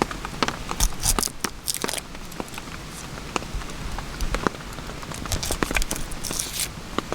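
Rain falling, with irregular sharp ticks and crackles scattered throughout.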